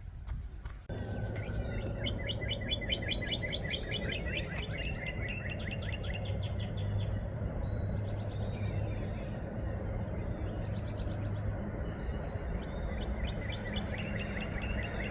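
Songbirds chirping in rapid repeated trills, starting about a second in, over a steady low rumble of wind on the microphone.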